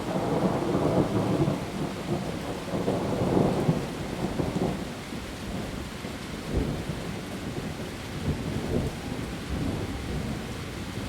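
Heavy rain falling on leaves, with a low rolling rumble that swells over the first few seconds and then eases off.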